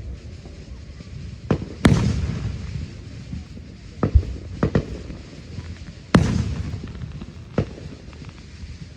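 Fireworks exploding: about eight sharp bangs at uneven intervals. The two loudest, about two seconds and six seconds in, are each followed by a long rumble that slowly fades.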